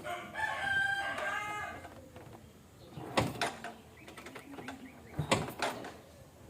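A rooster crows once, about a second and a half long, near the start. It is followed by two sharp clacks about two seconds apart.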